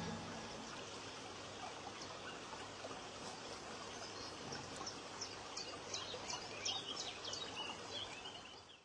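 Faint outdoor ambience with a small bird chirping: short, high, falling notes, a couple a second, starting about halfway through.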